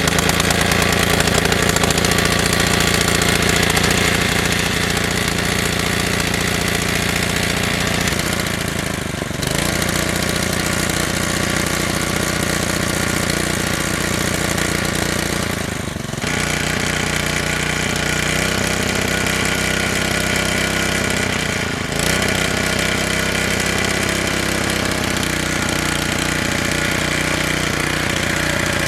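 Small gasoline engine of a portable water pump running steadily, its sound shifting slightly three times.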